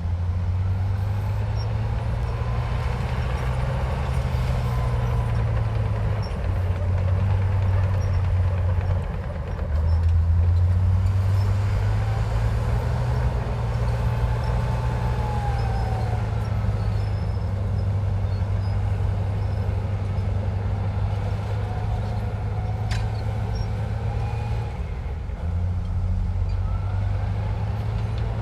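Heavy diesel engine of a Komatsu bulldozer running steadily, its pitch stepping up and down every few seconds as the load changes, with faint high squeaks over it and a single click near the end.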